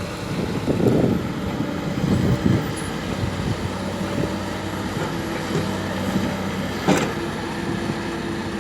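Excavator's diesel engine running steadily with a few surges, and one sharp knock about seven seconds in.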